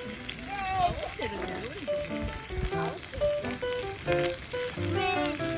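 Food sizzling as it fries on a hot pan, a steady crackling hiss, with background music of short melodic notes playing over it.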